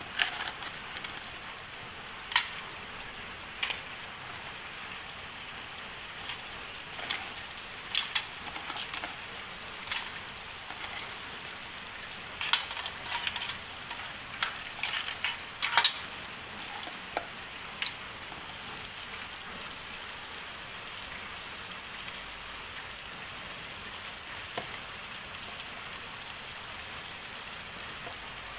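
Crab in sauce sizzling steadily in a wok, with a metal spatula knocking and scraping against the pan every second or two for roughly the first two-thirds. After that only the steady sizzle is left.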